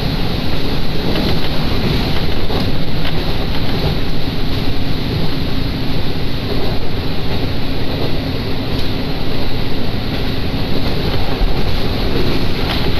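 Steady running noise heard inside a diesel railcar on the move: a constant rumble of engine and wheels on the rails, with a few faint ticks.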